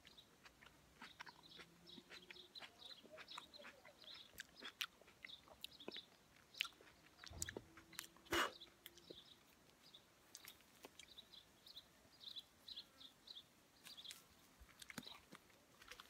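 A person chewing a juicy ripe plum close to the microphone: soft, wet mouth clicks and smacks, with a louder knock about eight seconds in.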